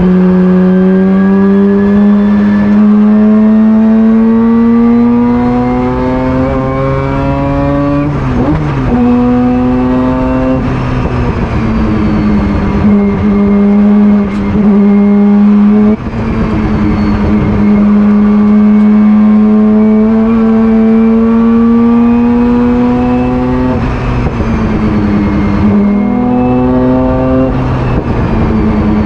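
Mazda rotary engine of a Camel Lights race car running hard. Its pitch climbs slowly through each gear and falls suddenly at each upshift, several times over.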